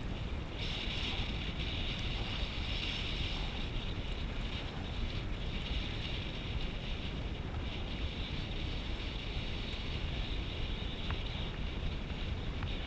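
Wind rushing over a GoPro action camera's microphone at speed: a steady rushing noise with a heavy low rumble.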